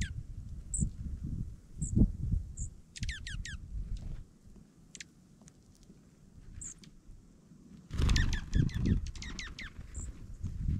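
Dark-eyed juncos calling: short high chip notes repeated every second or so, and quick runs of downward-sliding twitter notes about three seconds in and again about eight seconds in. Bursts of low rumble come and go under the calls, loudest near the second twitter run.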